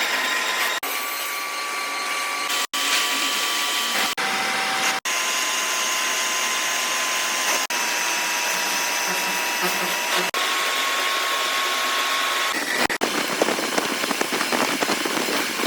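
A power tool or workshop machine running with a steady whirring hiss and a few steady whining tones, cut off briefly several times. Near the end it turns rougher, with a rapid rattling.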